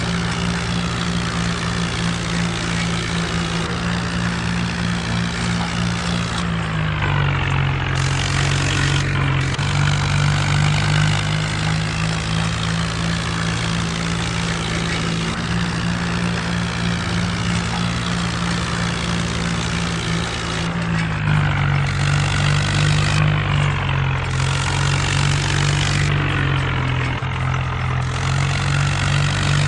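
Mahindra Arjun tractor's diesel engine running steadily under way, its note dipping slightly about a quarter of the way in and again about two-thirds through.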